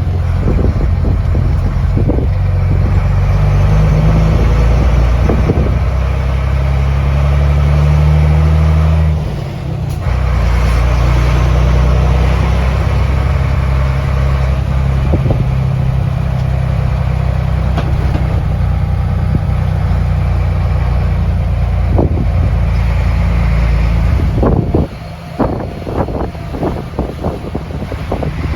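Scania 93 truck's diesel engine running steadily under load, its pitch shifting. The engine sound dips briefly about nine seconds in, and near the end it falls back while a string of short knocks and rattles is heard.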